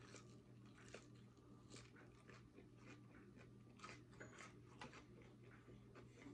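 Faint close-up chewing of crunchy fried chicken: many small crisp crunches of the breading, over a low steady hum.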